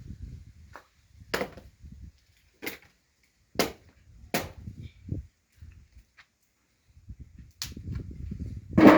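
Pieces of firewood knocking and clacking together as they are handled, about seven sharp irregular knocks, the loudest near the end.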